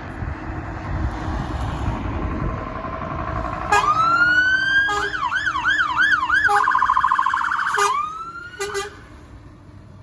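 Fire engine's electronic siren switched through its tones: a rising wail starting about four seconds in, then a fast yelp, then a rapid warble, then a brief rising wail that cuts off near nine seconds. The engine and road rumble runs underneath before the siren starts.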